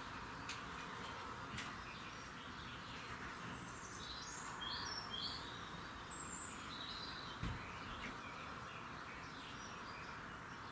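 Wild birds singing, with a burst of high chirps and warbles about four to seven seconds in, over a steady hiss of background noise. A soft low thump about seven and a half seconds in.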